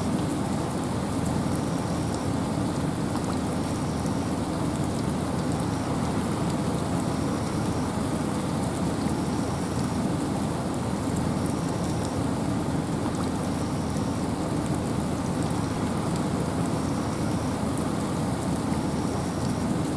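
Wind and rain in a forest, a steady dense wash of noise with a deep low rumble under the hiss of rain. A faint high note repeats about every two seconds.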